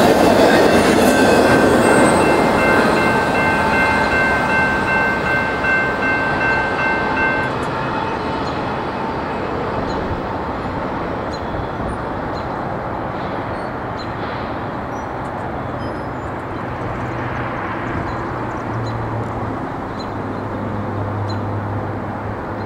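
Autorack freight cars rolling past on steel rails, the wheels squealing in several steady high tones for the first several seconds. Then the train's rumble slowly fades as the last car moves away around a curve.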